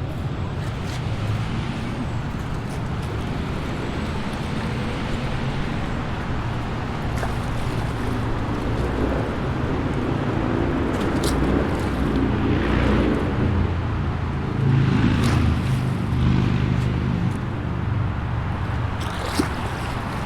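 Highway traffic: a continuous rush of tyre and engine noise from passing vehicles with a heavy low rumble, swelling louder about two-thirds of the way through as heavier or closer vehicles go by.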